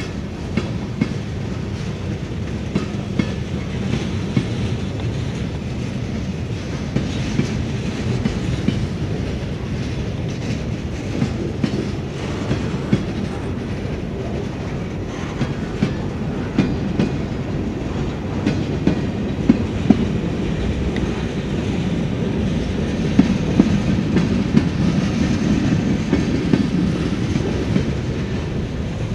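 Freight cars rolling past at close range: a steady rumble of steel wheels on rail, with frequent sharp clicks and clacks from the wheels. The cars are tank cars, boxcars and covered hoppers.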